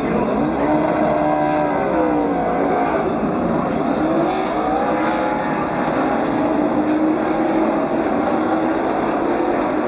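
A pack of NASCAR Cup stock cars passing at racing speed. Their V8 engines blend into a steady, loud din, with pitch sweeping up and then falling as cars go by.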